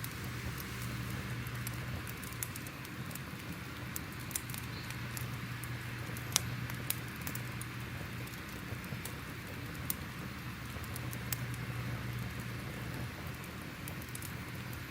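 Crackling fire: a steady soft hiss with irregular sharp pops and crackles scattered throughout, over a low steady rumble.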